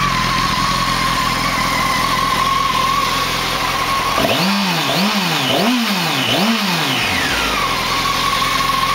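2007 Honda 919's inline-four engine running through its stock exhaust cans. It idles steadily, then about halfway through the throttle is blipped four times in quick succession, the revs rising and falling each time, before it settles back to idle.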